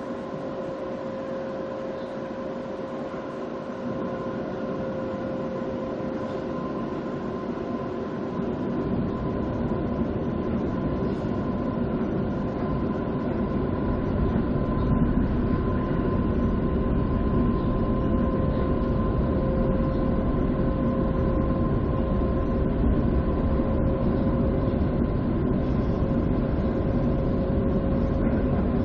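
Passenger train running, heard from inside a carriage: a steady rumble of wheels on track with a constant high whine, growing louder and deeper about halfway through.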